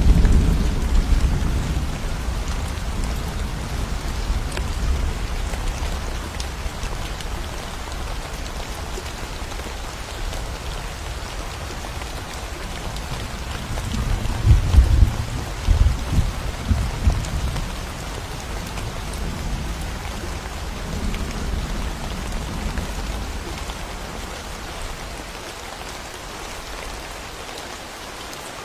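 Steady rain falling through a thunderstorm. A low thunder rumble fades out in the first couple of seconds, and a louder, uneven rumble of thunder rolls about halfway through.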